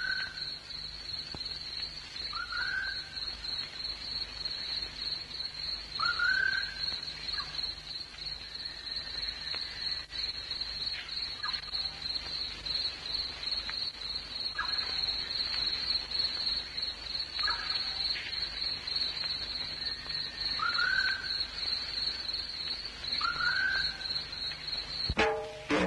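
Short bird calls, each a quick rising-and-falling note, repeated every two to four seconds over a steady high-pitched whine.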